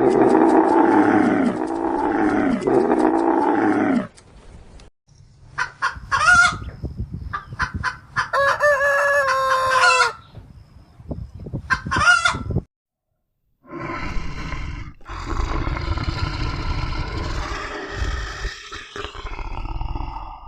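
Chickens clucking and a rooster crowing once, in the middle of a string of animal calls: three long, arching cries open it, and a long rough, noisy call, like a big cat's roar or growl, fills the last third.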